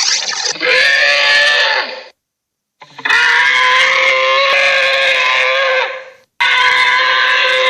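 Three monster vocal sound effects in a row: pitched, drawn-out creature calls, each cut off by a short gap of silence. The second lasts about three seconds, and the third runs on at the end.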